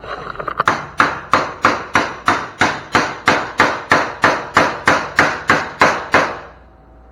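Hammer striking sheet steel in a steady run of quick, light blows, about three a second, each ringing briefly: a fender panel being worked into a bend with many small hits. The hammering stops about a second before the end.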